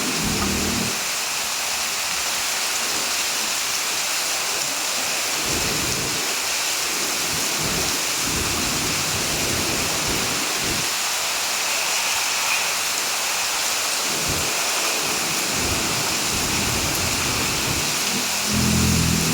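Heavy rain falling steadily with a dense hiss, and low rumbles swelling in and out a few times.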